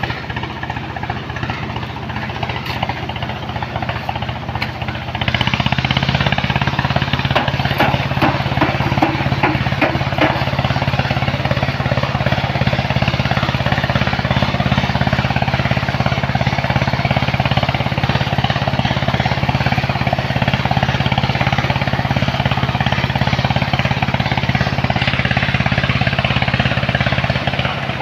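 Engine of a sand-loading machine running with a fast, rattling low hum, picking up to a louder, heavier run about five seconds in and easing off near the end.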